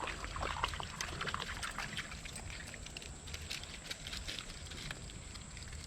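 Water splashing and trickling as a hooked largemouth bass is brought in, with a busy run of quick splashes over the first couple of seconds that thins out into a steadier trickle.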